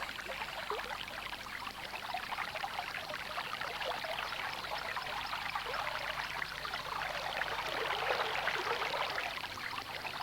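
Running water trickling and gurgling steadily as a dense patter, swelling slightly about eight seconds in.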